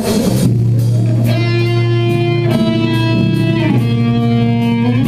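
Live band playing a slow song: sustained guitar chords that change every second or so over a steady bass note, with a light drum beat.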